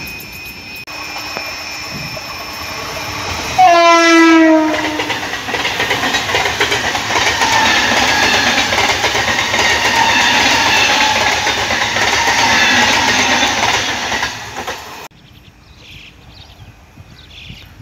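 Electric multiple-unit suburban train sounding one horn blast about four seconds in, the pitch dropping slightly, then running past close by at speed for about ten seconds. The loud rush cuts off suddenly near the end, leaving only faint background sound.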